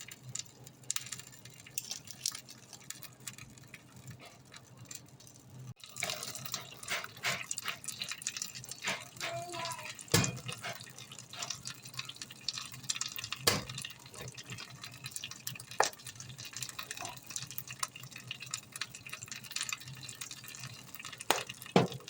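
Kitchen food-prep sounds: liquid splashing and dripping with scattered sharp clinks and knocks, starting abruptly about six seconds in after faint ticking.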